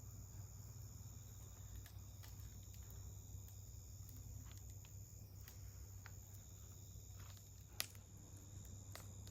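Wood fire crackling faintly, with scattered sharp pops and one louder pop near the end, over a steady high-pitched insect trill.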